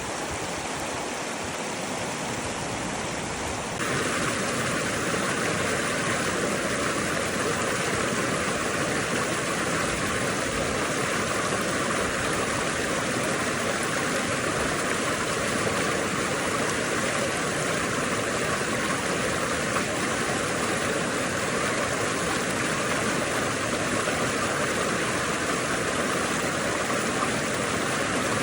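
Steady rushing noise with no clear tone, which gets louder and brighter about four seconds in and then holds steady.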